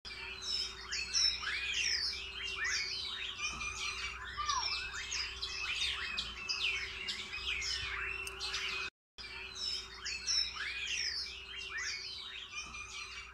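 Many birds chirping and twittering together in quick, overlapping calls, over a faint steady hum; the sound cuts out for a moment about nine seconds in.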